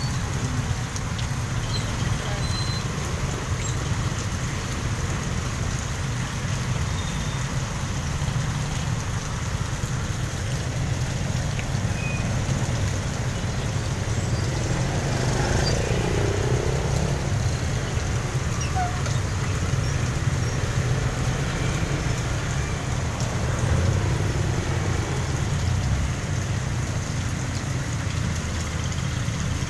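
Steady heavy rain pouring down on a wet street, with road traffic (motorcycles, motorcycle tricycles and vans) driving through the water and engines rumbling low. A vehicle passing close swells louder about halfway through.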